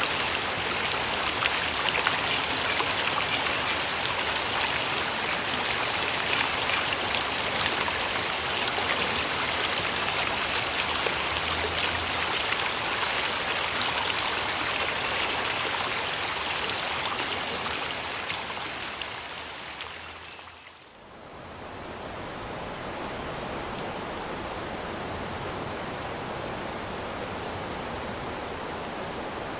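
Running water of a stream, a steady rush with a patter of splashing drops. About two-thirds through it fades out and gives way to a quieter, smoother, steady rush of water.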